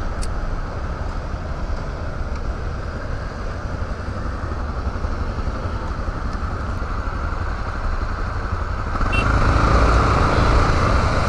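Yamaha Lander 250's single-cylinder engine idling while stopped in traffic among other motorcycles, then growing louder about nine seconds in as the bike pulls away.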